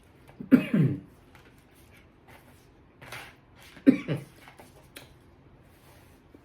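A man coughing in two short fits about three seconds apart, set off by the pepper in the garlic pepper salt he is tasting.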